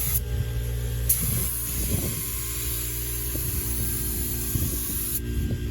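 Air-powered paint spray gun hissing as it sprays paint, with a brief break just after the start and another near the end as the trigger is let off. Beneath it, an air compressor runs with a steady hum.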